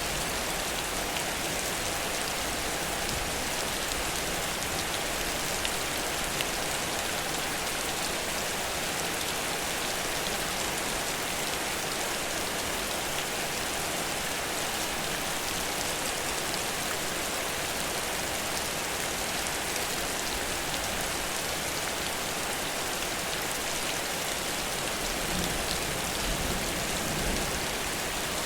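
Heavy rain falling steadily in an even hiss, with a few faint drop ticks.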